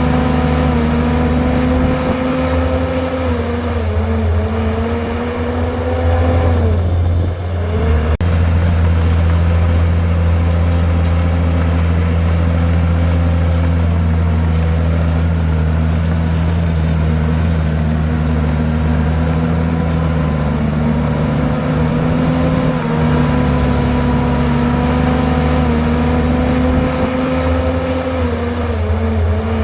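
Komatsu bulldozer's diesel engine running steadily under load as the blade pushes rock and soil. Its pitch sags and recovers twice in the first eight seconds and again near the end.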